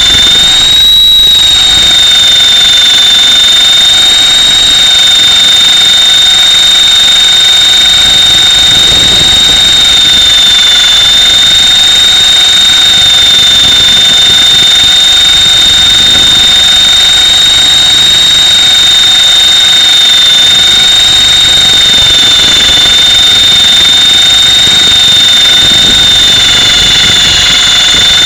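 Mini Titan E325 RC helicopter's electric motor and drivetrain, picked up by a camera mounted on board: a loud, steady high-pitched whine over rotor rumble, its pitch rising briefly about a second in and otherwise holding nearly constant.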